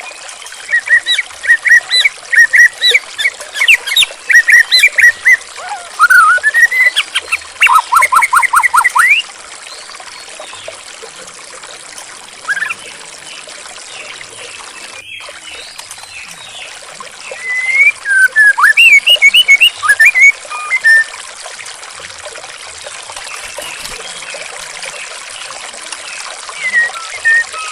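White-rumped shama (murai batu) singing in bursts of rapid, varied whistled phrases over the steady trickle of running water. The song comes in two long runs with a short phrase near the end.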